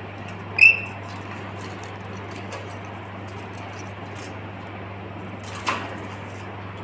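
A pet lory (small parrot) gives one short, high, loud chirp about half a second in and a sharper call or click near the end, over a steady low hum.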